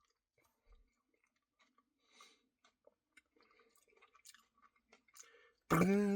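Faint wet chewing and mouth clicks of someone eating ice cream with cookie dough pieces. Near the end comes a loud, steady hummed groan.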